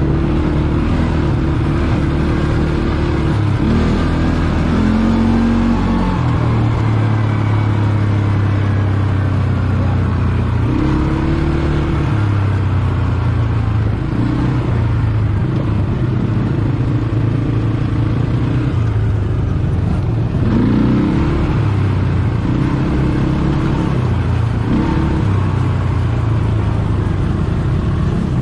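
ATV engine running while riding, its pitch rising and falling again and again as the throttle is opened and eased off.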